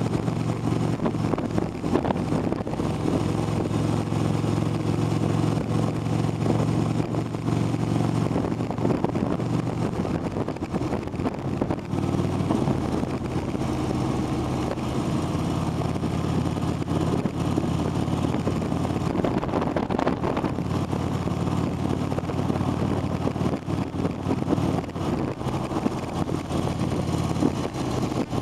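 Long freight train rolling past, a steady low rumble with a constant rattle.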